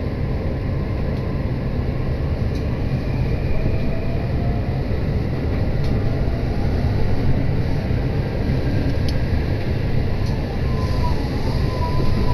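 Running noise of a moving passenger train heard inside the car: a steady low rumble of wheels on rails. A faint whine rises slowly in pitch midway, and another faint whine sounds near the end.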